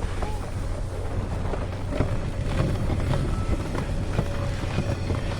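Snowmobile engine running steadily with a low drone, with wind buffeting the microphone.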